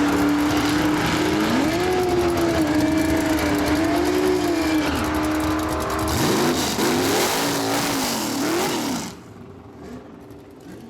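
A drag car's 355 cubic-inch small-block Chevy V8 held at high revs with a steady note for about five seconds, then revving up and down in several quick sweeps before the sound drops away suddenly about nine seconds in.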